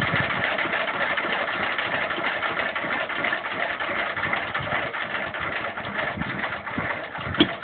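1926 Bernard type W2 engine running at a steady idle with a fast, even beat, getting slightly quieter as it goes. A short sharp click near the end.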